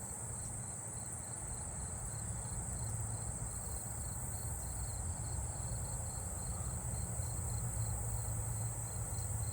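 Night insect chorus: fall field crickets giving regular, evenly spaced chirps over a steady high-pitched insect trill, with a low steady hum underneath.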